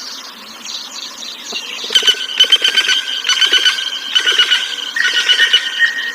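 A bird calling loudly from about two seconds in, in shrill, rapidly pulsing phrases that repeat one after another.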